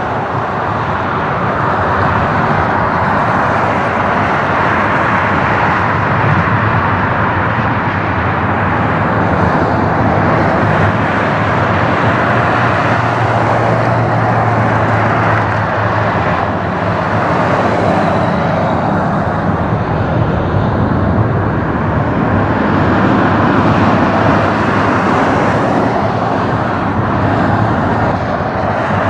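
Jet airliner engines running loud and steady, a broad even noise with a faint low hum underneath.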